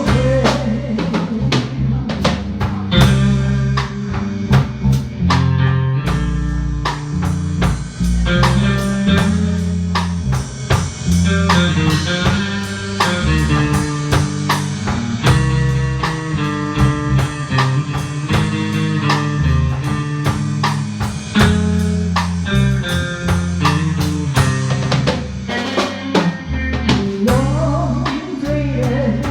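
A band of lead guitar, bass guitar and drum kit playing an instrumental passage with no singing. A steady drum beat with rimshots sits under moving bass notes and a guitar melody.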